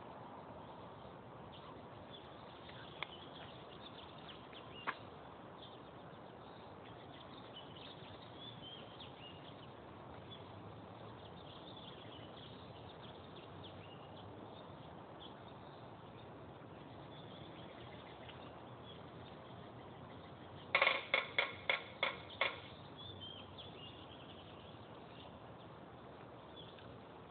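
Birds calling: faint high chirps throughout, broken about three quarters of the way through by a quick run of about seven loud, sharp calls.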